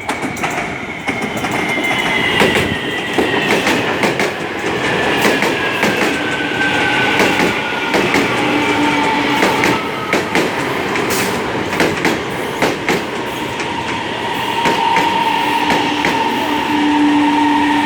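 Commuter train arriving at a station: its wheels click over the rail joints while a whine falls steadily in pitch as it slows, and a steady squeal sets in about halfway through and grows near the end.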